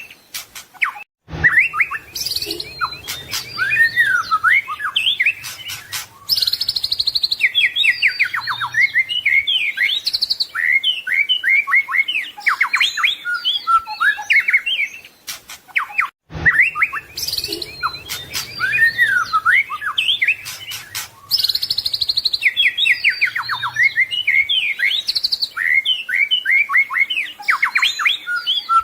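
White-rumped shama (murai batu) singing a long, varied song of rich whistles, rapid trills and sweeping notes, with the song sequence starting over after about 15 seconds.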